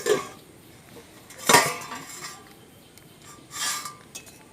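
Clanks and scrapes of kitchen cookware as the small plate covering a kadai is taken off. There is a short clink at the start, a louder scraping clank about a second and a half in, and another softer one near the end.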